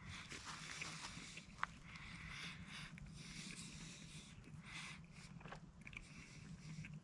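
A person biting into and chewing a breakfast smash-burger sandwich, faint and irregular, with one sharp click about a second and a half in.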